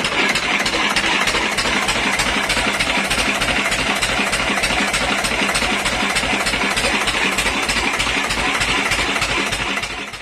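Old Lister two-cylinder stationary engine running steadily after a rebuild with new piston pins and bearings, with a quick, even beat of firing pulses. The sound fades out sharply at the very end.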